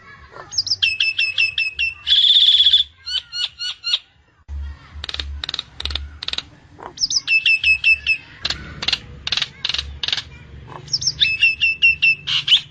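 Nias hill myna calling loudly. Runs of quick, falling whistles come three times, with a dense buzzing trill about two seconds in. Between them are stretches of harsh, rasping calls.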